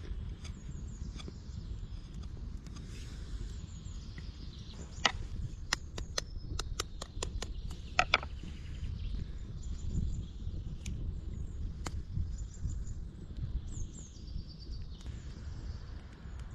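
Small birds chirping over a steady low outdoor rumble, with a quick run of sharp clicks or taps partway through.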